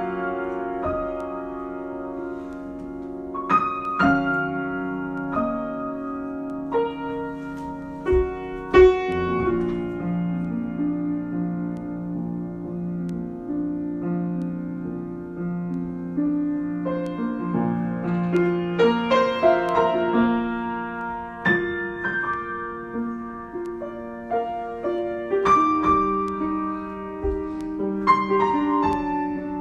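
Solo piano improvising slowly: held chords in the lower middle register, with single notes and chords struck over them every second or two and left to ring.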